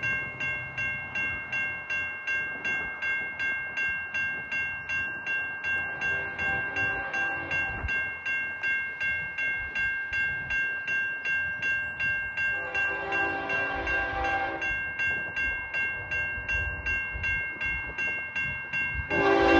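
Railroad grade-crossing bell dinging about twice a second. An approaching CN freight's locomotive horn sounds faintly around six seconds in, longer and stronger around thirteen seconds, and a louder blast begins near the end.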